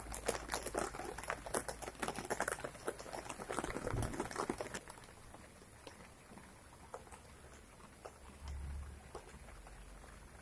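Rain pattering on garden leaves: a dense patter of drops for about the first five seconds, then lighter and quieter, with only scattered drops.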